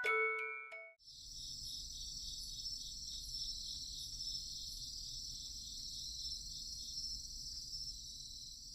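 A few ringing, chime-like mallet notes in the first second, then a steady high-pitched insect chorus with a faint low hum beneath it.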